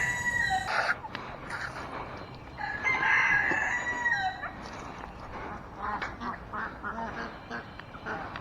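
A rooster crowing twice: the end of one crow just under a second in, then a full crow of about a second and a half, trailing off in pitch at the end.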